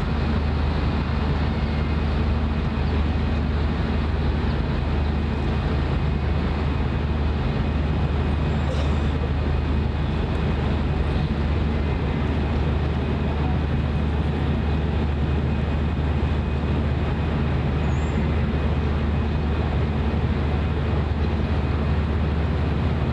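Steady low engine drone with a constant hum of even tones, mixed with general traffic noise.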